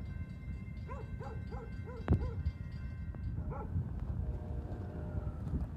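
Low rumble of an approaching Brightline passenger train and passing road traffic. Over it come runs of short calls that rise and fall in pitch, about four a second, and a single sharp knock about two seconds in.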